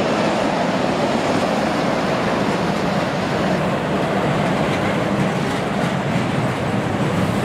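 Freight train of tank wagons behind a Traxx E186 electric locomotive rolling past close by: a steady, loud rumble of wheels on rails.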